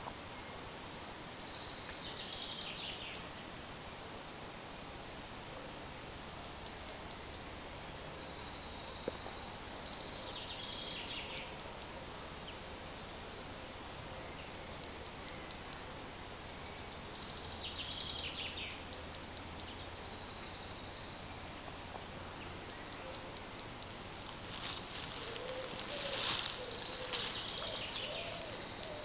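A songbird singing: repeated runs of quick, high, thin notes, each run a few seconds long with short pauses between. Near the end a fainter, much lower bird call sounds beneath the song.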